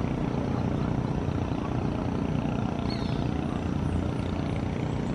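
Steady low rumbling noise, with a faint high chirp about three seconds in.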